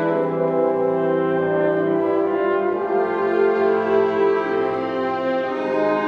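Brass ensemble, with French horns and trombones, playing slow sustained chords that change every second or two.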